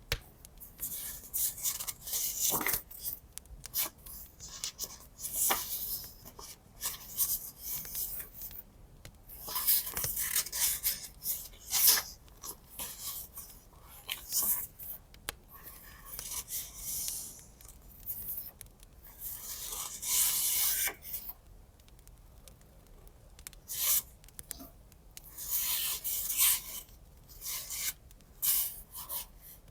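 Paper and washi tape being handled on a journal page: irregular rubbing and rustling strokes, some quick and some a second or two long, with short pauses between them.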